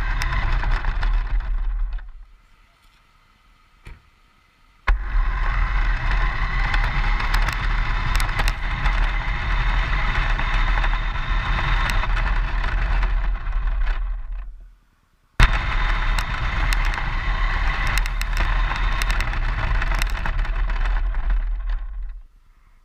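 Rolling and motor noise of a small RC car driving along a road, heard from a camera mounted on the car itself, with scattered clicks and knocks from bumps. It comes in three runs that start and stop abruptly.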